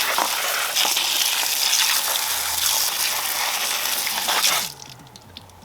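Garden hose spraying water through the robotic pool cleaner's filter to flush out leaves and palm strands, a steady hiss that cuts off near the end.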